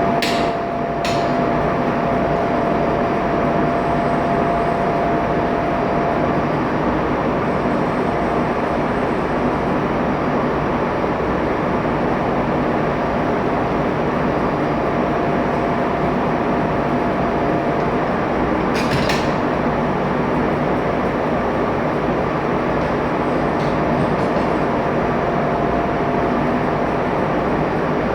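Ship's engine-room machinery running steadily, a loud even drone with a faint whine that comes and goes. A few short sharp clicks stand out near the start and again about two-thirds of the way through.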